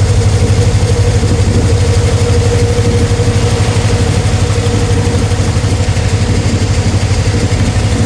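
Engine of a concrete-cutting saw running steadily: a fast, even throb with a held higher tone over it, unchanged throughout.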